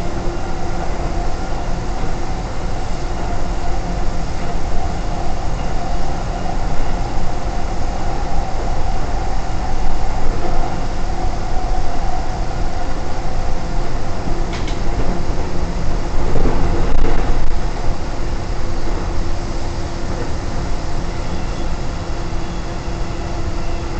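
Keikyu 1500 series commuter train running, heard from its rear cab: a steady rumble of wheels on rails with a level hum, and a few brief knocks over track joints, loudest about two-thirds of the way through.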